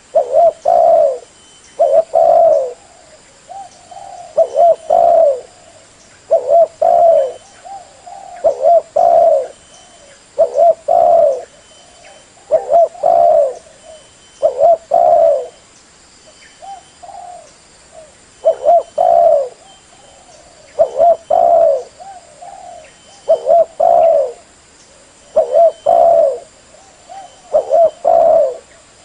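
Spotted dove (tekukur) cooing: short phrases of a few soft, low coos, repeated about every two seconds, with fainter single notes in between.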